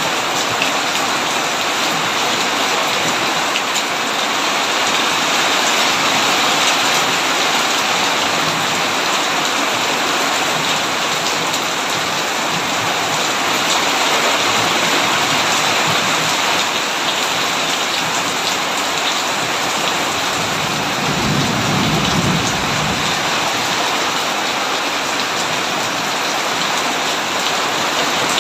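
Heavy rain pouring steadily on a tin roof. A low rumble of thunder rolls in about three-quarters of the way through and lasts a couple of seconds.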